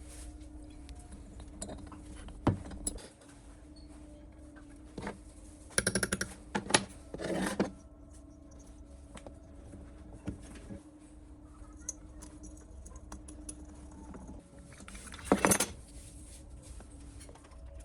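Small metal parts and tools clinking and rattling as they are handled, with scattered clicks and knocks and two brief bursts of jangling, one about six seconds in and one near the end.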